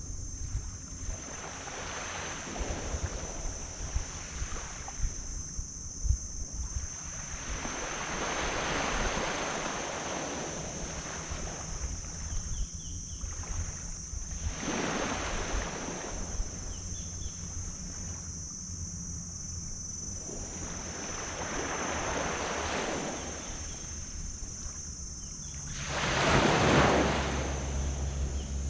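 Ocean waves breaking and washing up the beach, swelling and fading every few seconds, with the largest wave near the end, and wind rumbling on the microphone. A low steady hum comes in near the end.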